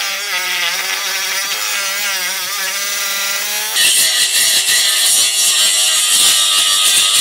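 A saw being worked by hand through a freshly cast metal piece. For the first few seconds it gives a wavering, squealing tone; from about four seconds in it turns to a louder, harsher rasp.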